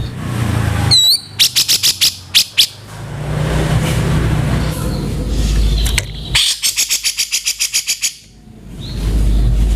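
Cucak jenggot (grey-cheeked bulbul) giving harsh, rasping calls: a short curved whistle, then rapid trains of coarse notes, about six a second and later faster, with a low rumble between the bursts.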